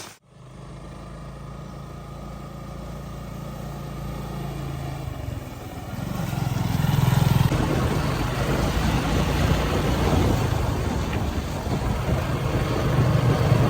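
Motorcycle engine running steadily and growing louder, with a louder rushing noise joining about six seconds in.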